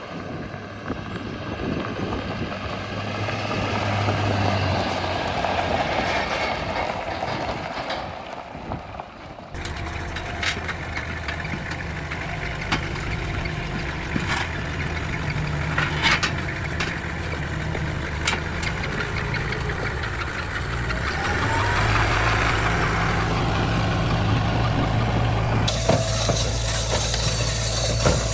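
Diesel engine of a truck or tractor running steadily, with a brief drop in sound about eight seconds in, a few sharp clicks, and a louder, deeper engine hum from about twenty-one seconds in.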